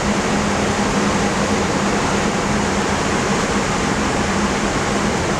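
Steady cockpit noise of an Airbus A320 in flight: an even rush of air and ventilation with a constant low hum.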